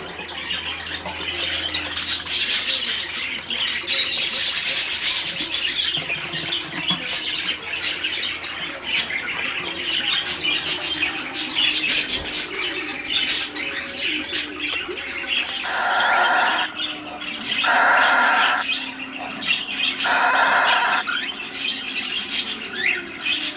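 Pet budgies and a cockatiel chirping and chattering throughout. About two-thirds of the way through come three louder, harsher calls, each about a second long.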